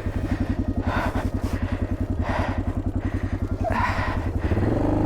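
Yamaha XT600Z Ténéré's single-cylinder four-stroke engine chugging at low revs with a fast, even pulse, crossed by three short noisy bursts about a second and a half apart. Near the end the revs rise.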